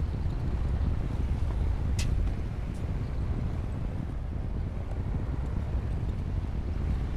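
Bulldozer's diesel engine running steadily under load, a deep low rumble, with one sharp click about two seconds in.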